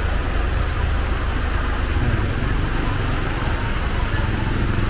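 Steady rain falling, with a vehicle engine idling as a low, even rumble underneath.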